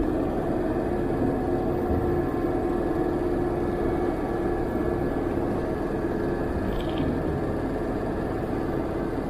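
Diesel pickup truck driving while towing a travel trailer, heard from inside the cab: a steady engine drone and road noise with a constant hum.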